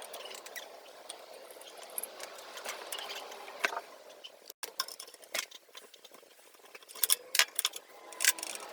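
Scattered light clicks and taps from handling tools or parts, with a cluster of sharper clicks near the end.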